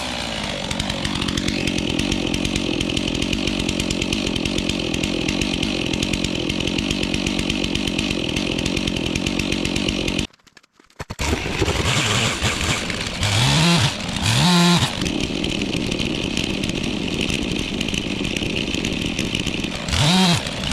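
Gas chainsaw running at full throttle as it cuts firewood logs, steady for about ten seconds. It breaks off suddenly for a moment about halfway, then carries on, with the engine revved up and down a few times between cuts.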